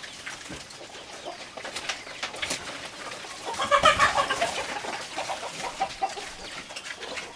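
Chickens clucking, with one louder call about halfway through and softer clucks after it, over scattered small clicks.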